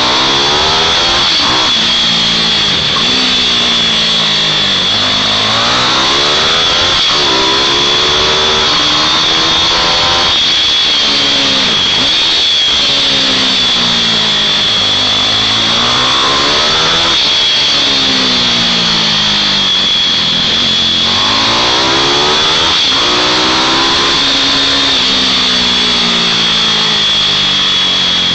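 Several mini bikes' small, high-revving engines racing round a track, pitch climbing as they accelerate and dropping off into the corners, over and over, with the sounds of different bikes overlapping. A steady high whine runs underneath.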